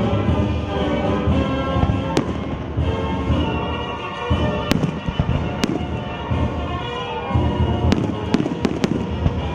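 Fireworks show: aerial shells booming and bursting with sharp cracks, a quick cluster of cracks near the end, over music playing.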